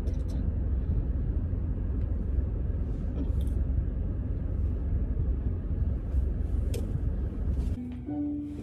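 Steady low rumble inside a car cabin from the idling engine, with a few faint clicks. Near the end the rumble drops away and background music begins with a few held notes.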